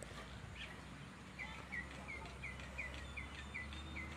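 A bird calling in a quick series of short, sharp chirps, roughly three a second, starting a little over a second in, over a faint, steady outdoor background.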